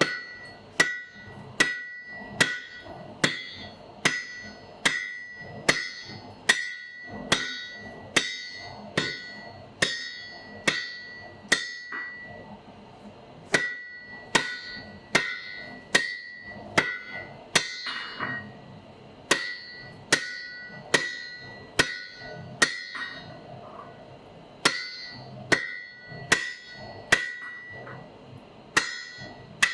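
Blacksmith's hammer striking an anvil in a steady rhythm, about one blow a second, each blow leaving a bright ringing tone. The hammering stops briefly a few times.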